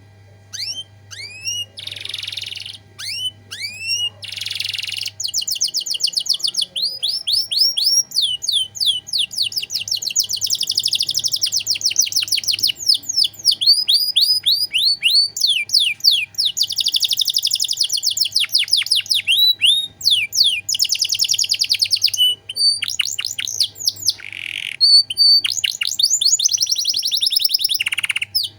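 Domestic canary singing a long, fast song of rapid repeated down-slurred notes and trills, broken by a few short buzzy phrases, over a faint low hum.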